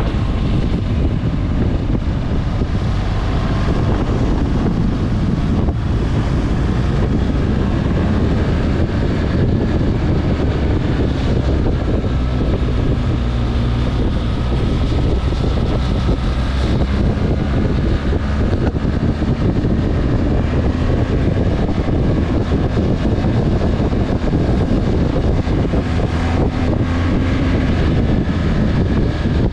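Motorcycle engine running while riding, its pitch wavering slightly, under heavy wind buffeting on the microphone.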